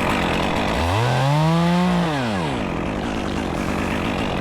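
Chainsaw revving up once and dropping back, the rev lasting about a second and a half, over a steady noisy running sound.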